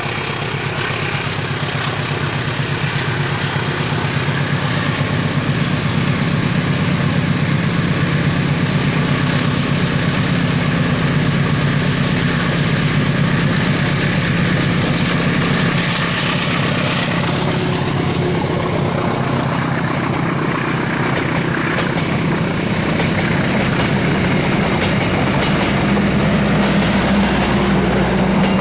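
Diesel-electric locomotive hauling a passenger train past: the engine's low, steady drone grows louder, with a falling sweep in pitch about two-thirds of the way through as the locomotive goes by, then the coaches rolling along the track near the end.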